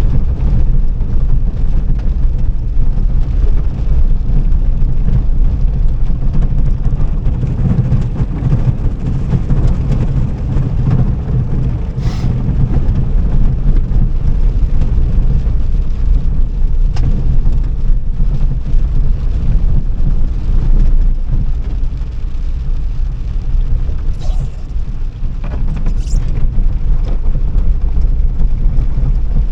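Car being driven: a loud, steady low rumble of engine and road noise, with a few faint clicks.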